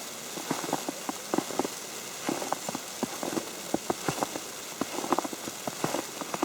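Falling snow tapping on an umbrella canopy: many light, irregular ticks over a steady soft hiss.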